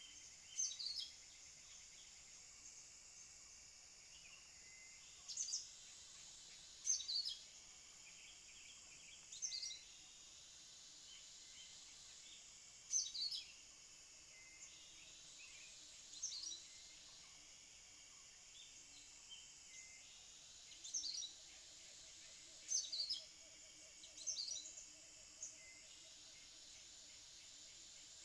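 Cucak kinoi bulbul calls: about ten short, chirpy phrases repeated at intervals of one to four seconds, over a steady high insect hiss.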